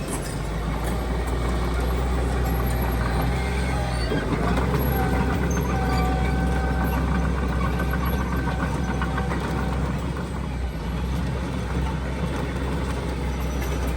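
Heavy earthmoving machine's diesel engine running steadily, with a deep rumble. A thin steady whine joins for a few seconds near the middle.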